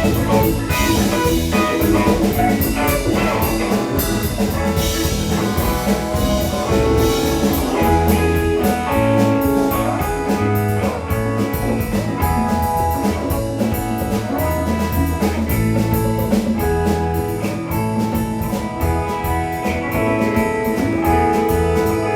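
Live rock band playing an instrumental passage: electric guitar lines over bass and a steadily hit drum kit.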